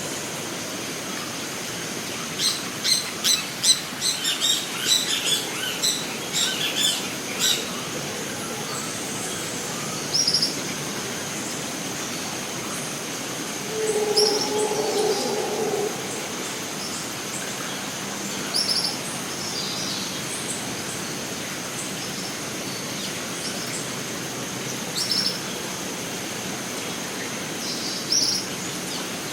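Rainforest ambience: a steady hiss under a constant high tone, with birds calling. A rapid run of chirps comes a few seconds in, then a short high call repeats every few seconds, with a lower call about halfway through.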